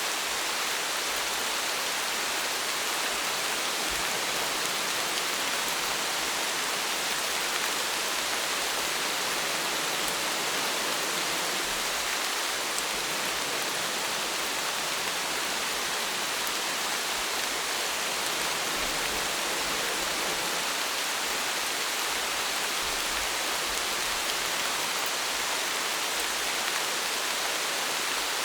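Steady rain: an even hiss of falling rain and drops on a surface, with no change in strength.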